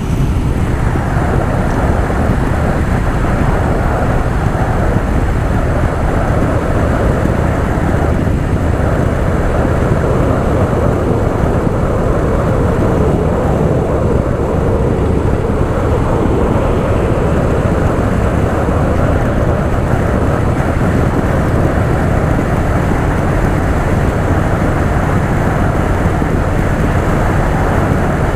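Harley-Davidson Softail Fat Boy V-twin engine running steadily at cruising speed, mixed with constant wind rush on the rider's microphone.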